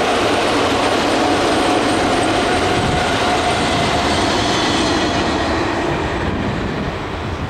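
Freight train wagons of an iron ore train running past on the rails: a steady rumble and rattle of wheels on track, with a thin steady high tone over it. The sound eases off near the end as the wagons move away.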